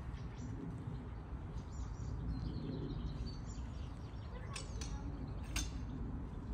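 Outdoor park ambience: a steady low rumble with scattered faint bird chirps, and a few sharp clicks in the second half.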